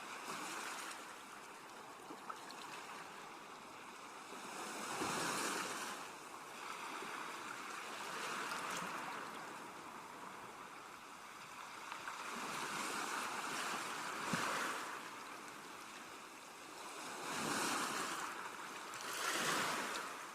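Sea waves washing ashore in a steady hiss, with a louder surge of surf every few seconds.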